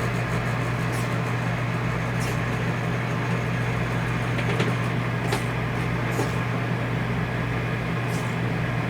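RV rooftop air conditioner running with a steady low hum, with a few faint light clicks over it. Its mounting bolts have been retightened by hand to cure the out-of-balance fan vibration, so the unit runs quiet again.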